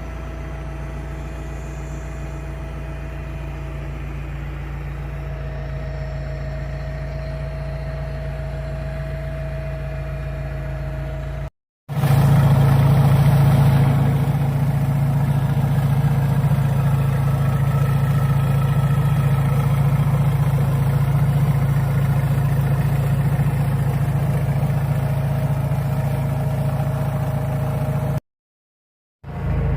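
John Deere engine of a Crown forklift idling steadily. The sound cuts out briefly twice and is louder after the first break, about twelve seconds in.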